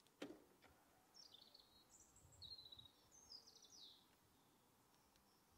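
Faint bird song: several quick, high chirping phrases, with a single click just after the start.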